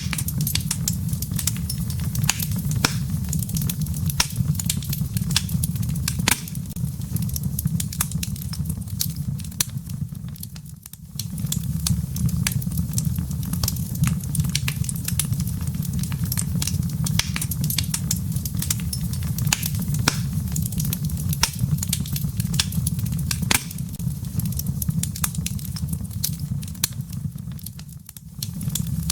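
Wood fire burning in a fireplace: a steady low rumble under frequent sharp crackles and pops of burning firewood. The fire's sound dips briefly twice, about a third of the way in and near the end.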